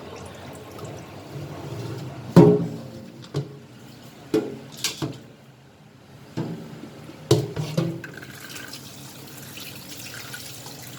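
Raw chicken being washed by hand in water: sloshing and splashing, with a few sharp knocks that ring on briefly, the loudest about two and a half seconds in.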